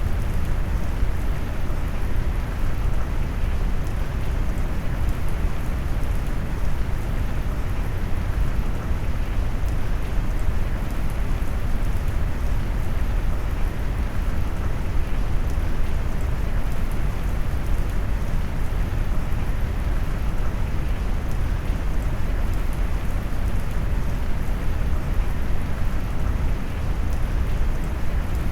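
Steady rain noise mixed with brown noise, a dense, even hiss heaviest in the low end with little high treble, unchanging throughout.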